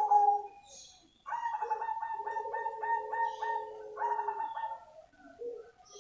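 Zebra dove of the all-black cemani strain singing its cooing song: a phrase ends just after the start, then about a second in comes a longer phrase of quick, rapidly repeated coo notes that fades out over its last second.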